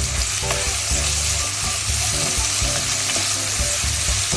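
Sliced onions and whole spices sizzling in hot oil in a pan, stirred now and then with a spoon. The sizzle is a steady hiss, over a low hum.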